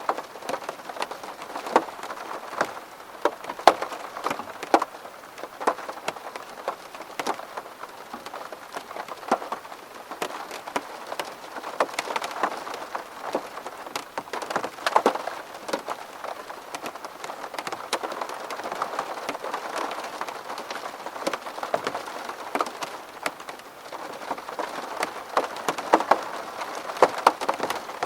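Steady rain striking window glass: a constant hiss broken by many sharp, irregular drop hits.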